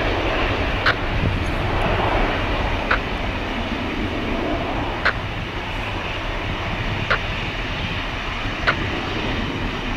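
Airliner engines running, a steady rushing noise, with a short sharp tick about every two seconds.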